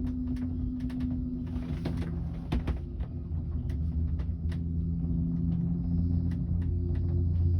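Skyrail gondola cabin running along its cable: a steady low hum with a scatter of light clicks and rattles a few times a second.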